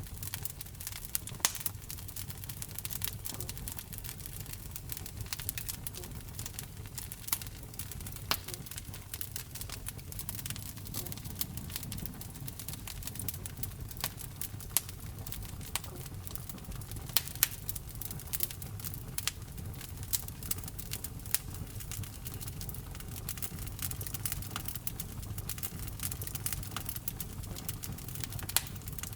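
Wood fire burning in a fireplace: a steady low rumble of flames with constant irregular crackling and occasional sharper pops.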